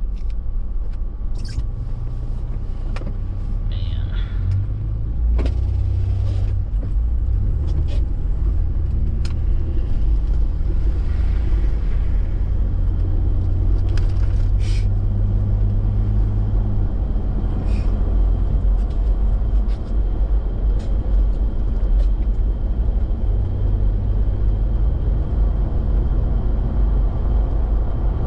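Toyota Tacoma pickup driving at a steady pace: a continuous low engine and road rumble, with a few faint clicks scattered through it.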